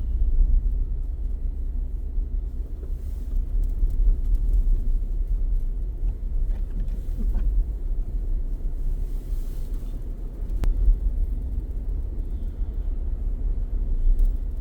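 Steady low rumble of a car driving, heard from inside the cabin, with a single click about ten seconds in.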